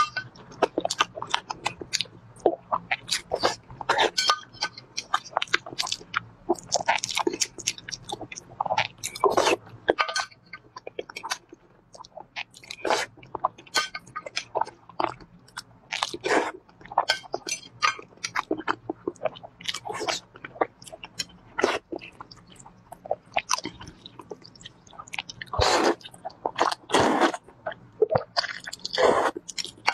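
Close-miked eating sounds: irregular mouth clicks and smacks of chewing and biting whole boiled eggs. Near the end, glass noodles are slurped.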